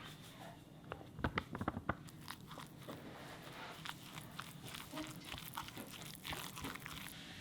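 A run of small sharp clicks and crunches, close by, with a cluster of louder clicks about a second in and a denser crackle of smaller ones after that. The sound is typical of food being bitten and chewed.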